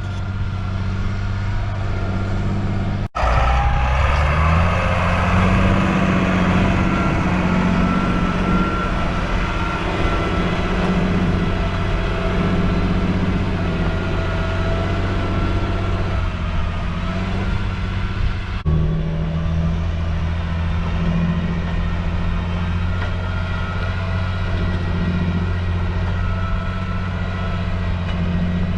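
John Deere 8400 tractor's six-cylinder diesel engine running steadily while pulling a subsoiler. The sound breaks off abruptly about three seconds in, and just after that the engine revs up to a higher steady pitch. A second abrupt break comes about two-thirds of the way through.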